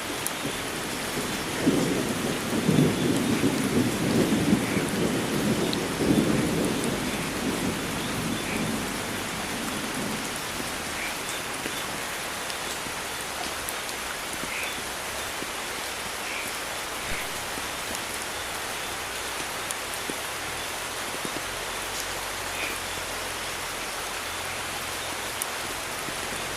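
Steady heavy rain hissing, with a roll of thunder that swells low a couple of seconds in and dies away by about ten seconds, leaving the rain alone.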